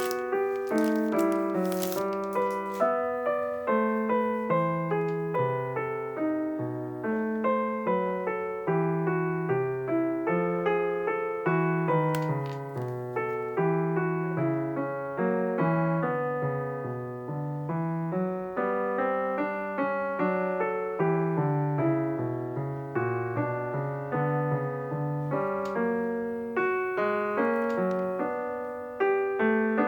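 Background music: a slow solo piano minuet, a continuous run of single struck notes over a lower line, with a few faint clicks near the start and about twelve seconds in.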